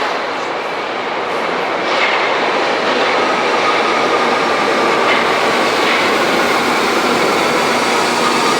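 Berlin subway train running with a loud, steady rumble that grows louder about two seconds in. Faint thin high squealing tones from the wheels run through it.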